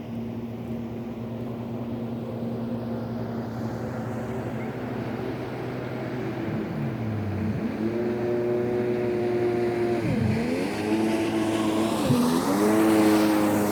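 A motor engine running, steady at first, then revving with its pitch dropping and climbing back three times, getting louder near the end.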